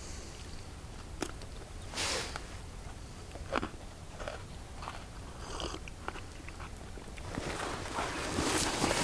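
A person biting and chewing wafers softened in tea, with scattered small crunches and clicks. A louder rustling builds near the end.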